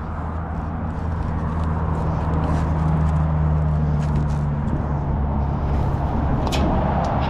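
A large diesel engine running steadily, a low even drone that swells slightly about a second in, with a few scattered sharp clicks over it.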